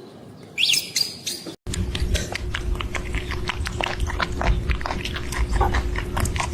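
An animal chewing and crunching food: a fast, uneven run of sharp clicks over a steady hum. Before this, about half a second in, comes a brief high-pitched sound that stops abruptly.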